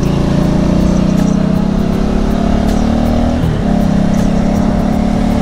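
Motorcycle engine pulling under load with its pitch slowly rising, then a quick dip about three and a half seconds in as a gear is changed, after which it pulls steadily again. A steady rush of wind noise runs underneath.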